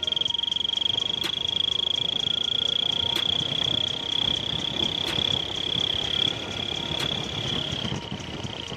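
Turbo whistle on a Hero Splendor's exhaust giving a steady, high-pitched whistle that pulses with the single-cylinder engine's exhaust beats, the pitch wavering slightly.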